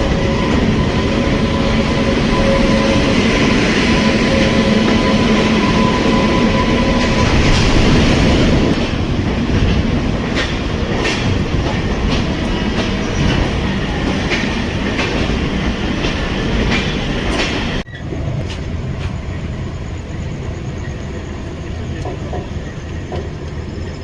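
Express passenger train running on the track: a loud rumble with a steady whine for the first several seconds, then wheels clicking over rail joints. The sound drops abruptly about eighteen seconds in to a quieter steady train rumble.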